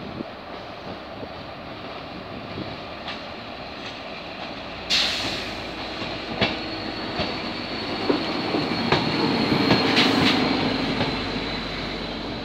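A train moving through a station, its wheels running steadily on the rails. About five seconds in a high-pitched wheel squeal starts suddenly and carries on, with a series of sharp clicks as the wheels pass over rail joints, and it grows loudest near the end.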